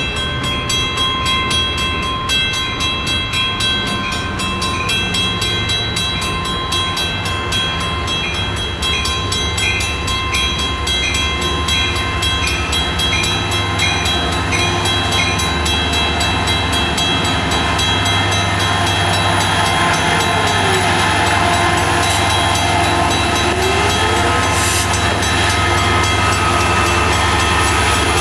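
Long Island Rail Road diesel train, led by a DM30AC locomotive, pulling into a station platform. The engine drone grows louder through the second half, over steady high ringing tones.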